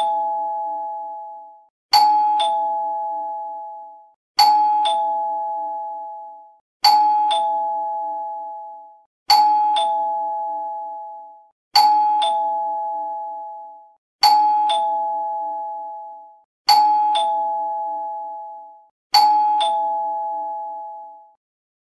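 Doorbell chime sounding a two-tone ding-dong, a higher note then a lower one, repeated at an even pace about every two and a half seconds, each ring fading out before the next.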